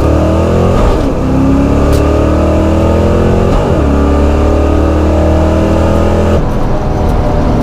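A Fox-body Mustang GT's 5.0 V8 accelerating hard down the drag strip, its pitch climbing through the gears with two upshifts, about a second in and about three and a half seconds in, before the throttle comes off sharply near the end.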